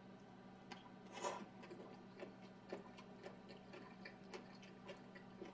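Faint, irregular wet mouth clicks and smacks of a person chewing a mouthful of food, with a slightly stronger smack about a second in.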